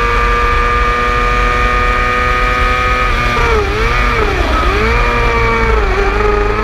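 600cc sport motorcycle engine running hard at high revs, a high steady note that dips in pitch and recovers twice around the middle, then drops a little near the end.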